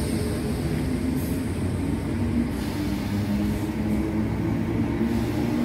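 Class 350 electric multiple-unit train passing close at speed: steady wheel and running noise with a low, level hum.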